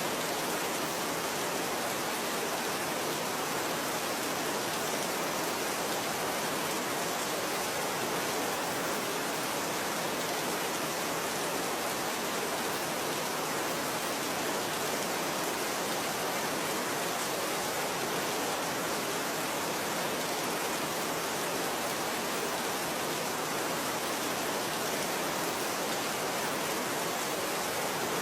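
Steady, even rainfall hiss with no separate drops or changes standing out.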